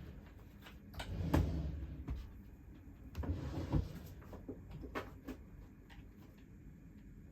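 Paper and stationery being handled on a desk, likely a sticker book being leafed through: two rustling swells and several light clicks and taps.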